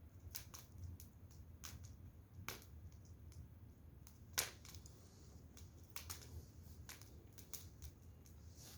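Burning firewood crackling: scattered irregular pops and snaps, with one louder pop about four and a half seconds in.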